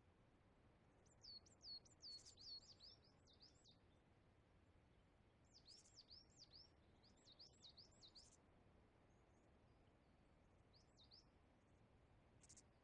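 Near silence with faint bird chirping: two quick runs of repeated high chirps, and a short third one near the end.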